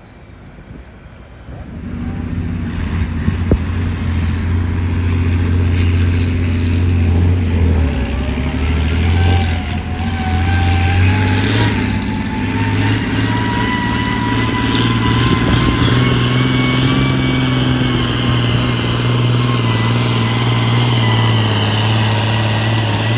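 Diesel pulling truck engine at full throttle under heavy load while dragging the sled on a pull. A high whistling turbo whine climbs slowly over the run, and the engine note drops and picks up again about a third of the way through.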